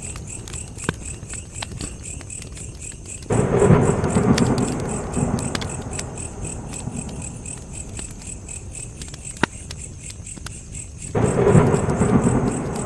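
Campfire crackling with sharp pops, over a steady high pulsing chirp of insects. Twice, about three seconds in and near the end, a sudden low rumble surges up and fades away over a few seconds.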